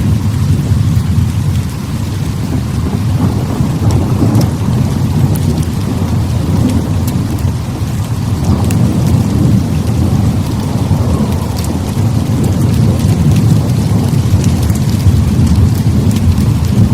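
Heavy rain with a deep, rolling thunder rumble that swells and eases.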